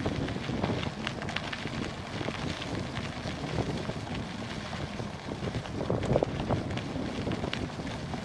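Headwind buffeting the microphone of a camera carried along a bumpy trail, a steady low rumble with scattered clicks and knocks from the jolting ride.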